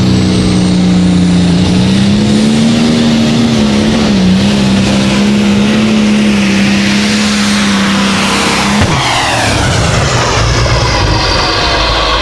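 High-powered tractor engine running at full throttle, its pitch holding high and wavering slightly; about nine seconds in the throttle is chopped and the engine drops abruptly to a lower, falling note.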